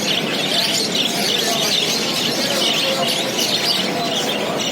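Many budgerigars chattering at once, a steady dense mix of high chirps and warbles.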